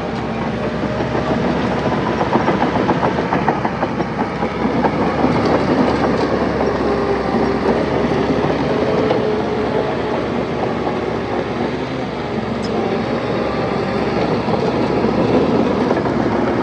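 Crawler bulldozer working: its diesel engine runs steadily under varying load, and the steel tracks clank continuously.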